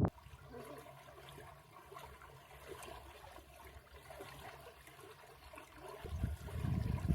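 Water running steadily with a trickling, splashing texture. About six seconds in, a louder low rumbling sound comes in.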